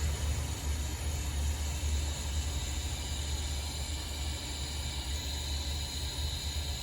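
Small handheld butane torch burning steadily, a low rumble under an even hiss, as it heats a solder-seal connector on a wire until the solder melts.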